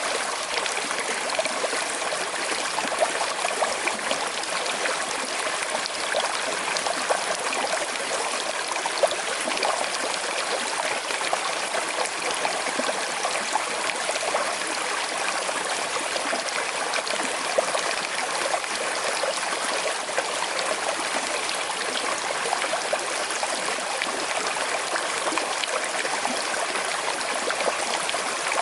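Small river flowing over stones: a steady rushing with light trickling and gurgling splashes.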